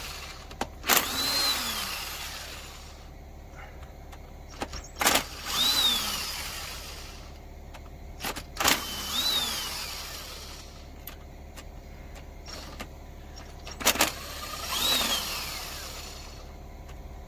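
A power tool running in short bursts, about four times, each a sharp click followed by a motor whine that spins up and winds back down, as it works the camshaft cap bolts on a BMW M57 diesel cylinder head.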